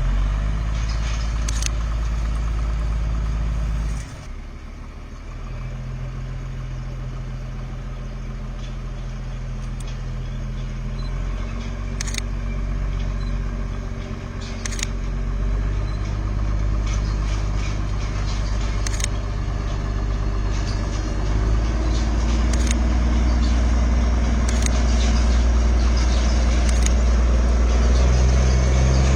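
A vehicle's engine running steadily, its low note stepping down and up several times, with a few sharp clicks. It drops in level about four seconds in, then grows steadily louder.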